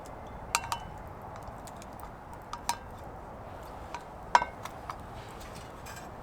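Metal utensil clinking against metal camp cookware: about eight short ringing clinks in small groups, the loudest about four and a half seconds in, over a steady low hiss.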